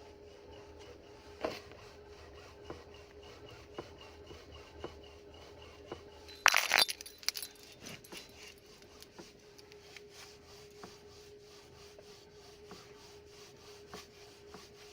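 Knocking in a Skoda Rapid's steering: light sharp knocks about once a second, with one louder rattling clunk about six and a half seconds in, over a steady hum. It is a knock that has newly appeared and that the owner cannot explain.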